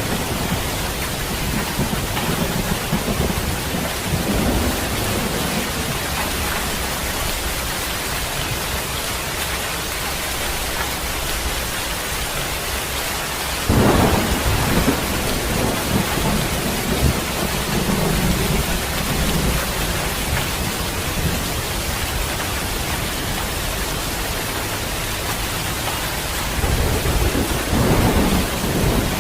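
Heavy rain falling steadily in a thunderstorm. About halfway through a sudden thunderclap breaks out and rolls on as a low rumble, and more thunder rumbles near the end.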